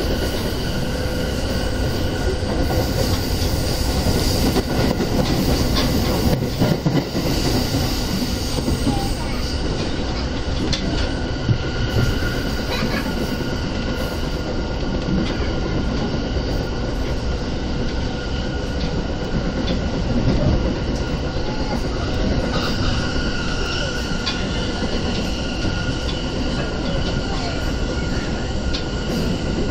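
JR Keiyo Line electric commuter train running at speed, heard from inside the passenger car: a steady rumble of wheels on rail with a continuous high ringing tone over it.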